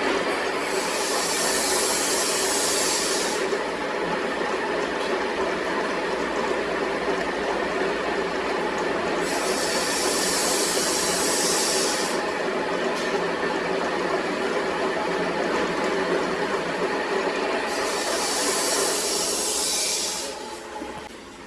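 A workshop machine running steadily, with three bursts of high hiss about two and a half seconds each, evenly spaced. The machine quietens shortly before the end.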